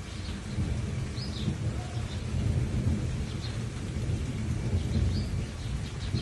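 Thunder rumbling low and rolling over steady rain, with a few short bird chirps high above it.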